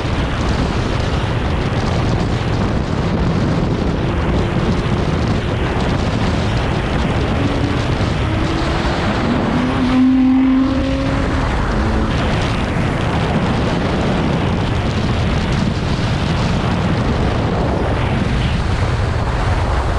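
Car driving along: a steady rush of road and wind noise, with a few faint brief tones partway through.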